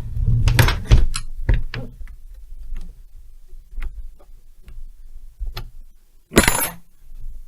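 Metal hand tools being handled on a workbench: a run of clicks and knocks in the first two seconds, scattered light ticks, then a louder metallic clatter about six and a half seconds in.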